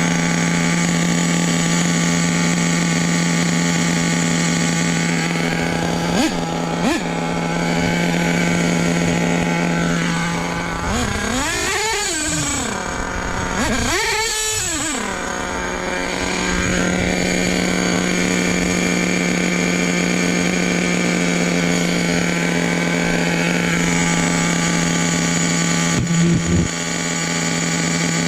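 A nitro RC truck's small two-stroke glow engine running at a steady high pitch. Midway through, its pitch swoops down and back up twice in quick succession, and there are a few short blips of throttle.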